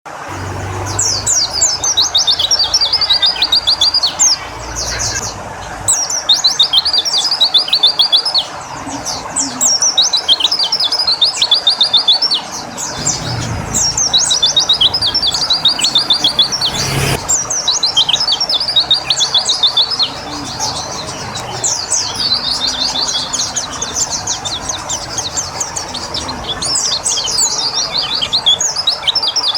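Pleci (white-eye) songbird singing: a high, rapid chirping phrase repeated about every two to three seconds. This is the quick rattling song that pleci keepers call 'nembak'. A single sharp tick sounds about two-thirds of the way through.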